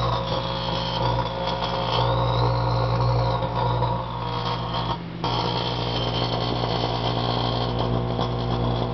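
GE microwave oven running: a steady low electrical hum with whirring fan noise, which dips briefly about five seconds in.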